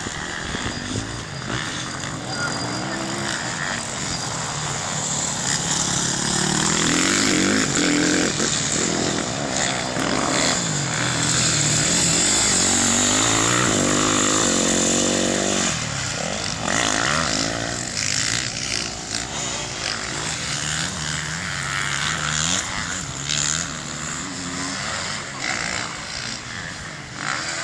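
Several off-road racing motorcycle engines revving and shifting as the machines pass on the track, the pitch rising and falling with each pass, loudest in the middle as the bikes come closest.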